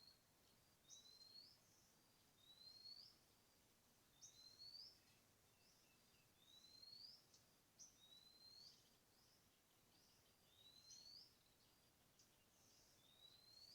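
Faint bird call: a short whistled note that slides upward, repeated every one to two seconds, over a quiet background hiss.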